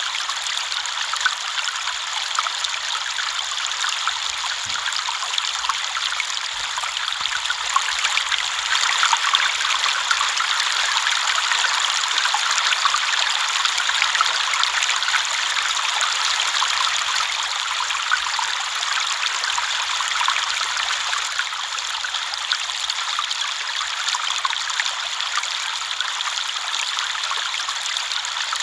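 River water flowing and babbling, a steady rushing with a fine splashing texture and no other sounds.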